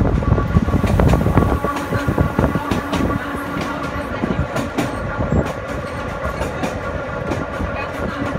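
Narrow-gauge electric train of the Sóller railway running along the track, heard from inside its wooden passenger carriage: a steady running rumble of wheels on rails with repeated clicks at the rail joints. It is louder and heavier for about the first second and a half, then settles to a quieter, even run.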